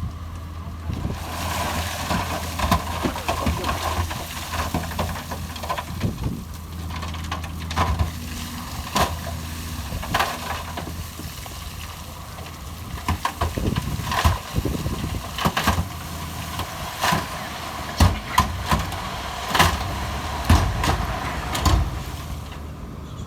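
Heavy diesel construction machine running steadily under a low hum, with irregular sharp clanks and knocks of stone and steel, thickest in the second half.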